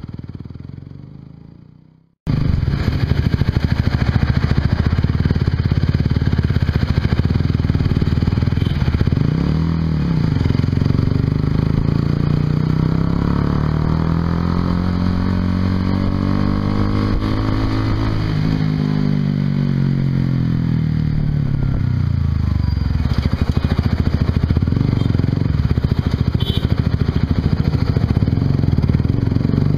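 Onboard sound of a Honda CBR150R's single-cylinder engine through a Yoshimura exhaust while riding, with heavy wind noise on the microphone. The engine pitch rises and falls as the rider accelerates and eases off. About two seconds in, the sound fades out and cuts back in.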